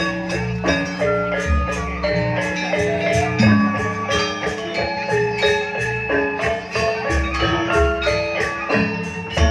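Gamelan ensemble accompanying a janger dance. Struck metallophones play a quick run of pitched notes over sustained low tones.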